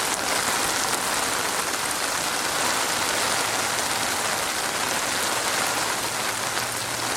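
Steady rain falling, an even hiss of drops without a break. A faint low hum comes in about three seconds in.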